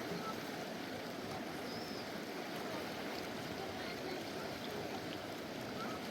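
Full-flowing mountain river rushing steadily.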